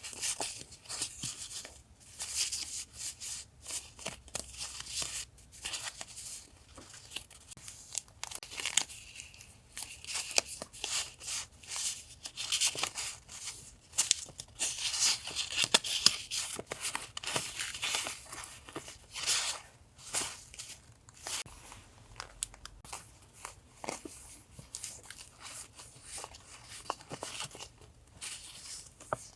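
Paper and plastic packaging rustling and crinkling as sticker and paper journaling items are unwrapped and handled. It comes as many short, irregular scratchy bursts.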